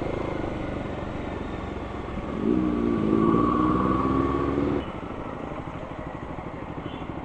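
Motorcycle engine and wind noise while riding in traffic. Around the middle the engine note climbs and holds for about two seconds, then falls away.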